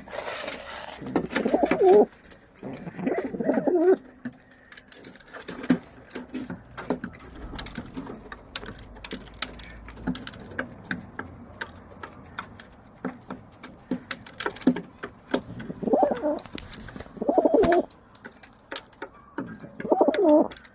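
A pigeon cooing: five warbling coos of about a second each, two near the start and three near the end, with many short sharp clicks between them.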